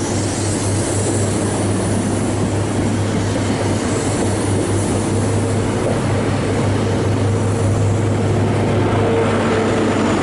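InterCity 125 High Speed Train pulling out of the station, its coaches rolling past at low speed over the rails with the steady low drone of its Class 43 diesel power cars.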